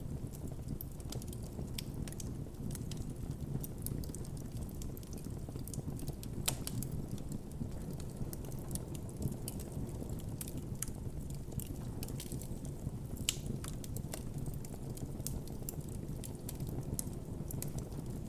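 Wood campfire burning: a steady low rumble of flames with irregular crackles and small pops throughout, a few sharper pops standing out.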